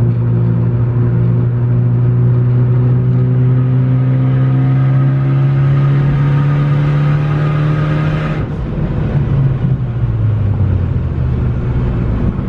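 Hybrid-turbocharged Ford Focus ST's four-cylinder engine making a full-throttle pull on about 26 psi of boost, its note rising steadily for about eight seconds. About eight and a half seconds in the throttle is closed and the note drops abruptly to a lower, steady drone.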